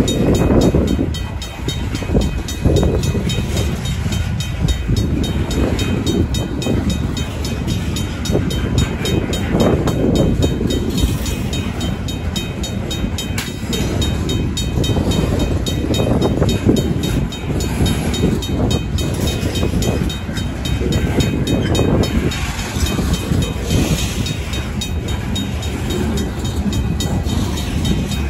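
A freight train of covered hopper cars rolls through the grade crossing, its steel wheels on the rails giving a loud, steady rumble and rattle. Over it the crossing's RACO mechanical bell keeps ringing at an even beat.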